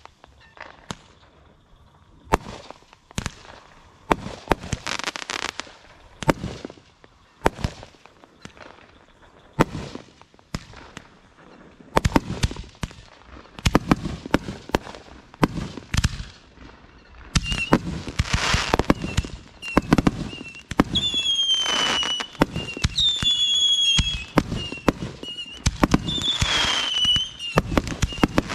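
Consumer fireworks going off in quick succession: sharp bangs and crackling shells. In the second half, several shells give out whistles that fall slightly in pitch as they go up.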